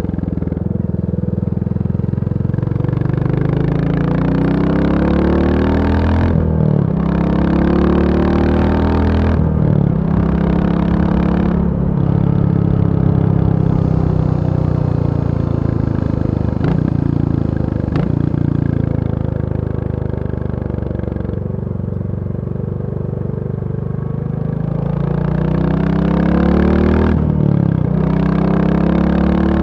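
Royal Enfield Bullet 350's single-cylinder engine running, its pitch repeatedly climbing and falling with engine speed. Short breaks in the note come about 6, 9, 12 and 27 seconds in. It drops lower in the middle stretch, then climbs again near the end.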